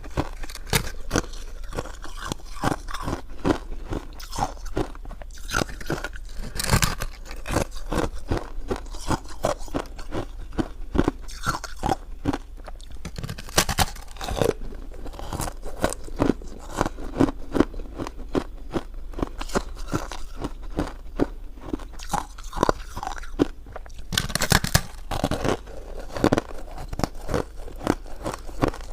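Close-miked eating: a person biting and chewing food, a dense run of short wet mouth clicks and smacks, several a second, with a few louder bites.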